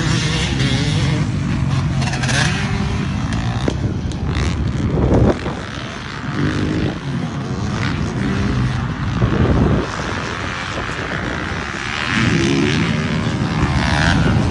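Two-stroke dirt bike engine running hard on a motocross track, revving and backing off, with the throttle shut twice, about 5 and 10 seconds in, before it picks up again.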